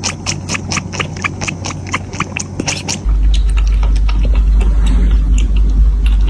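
Cat lapping milk: quick, even wet clicks of the tongue, about four or five laps a second, thinning out about halfway. A steady low rumble starts about halfway and covers them.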